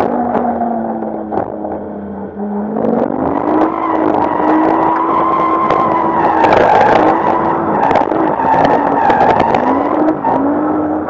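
Nissan Skyline R34's turbocharged RB25 straight-six drifting, with tyres squealing. The revs sag for the first couple of seconds, climb sharply about three seconds in, then hold nearly flat with small wobbles, bouncing off the rev limiter.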